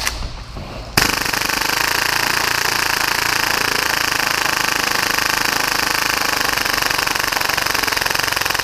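Full-auto Tokyo Marui Hi-Capa gas blowback airsoft pistol, built for about 30 rounds per second, firing one long continuous burst that starts suddenly about a second in.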